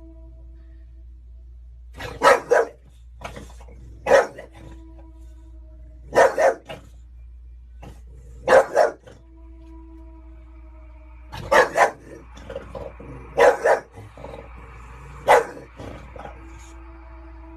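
Dog barking in short bursts, mostly quick double barks, repeated about every two seconds.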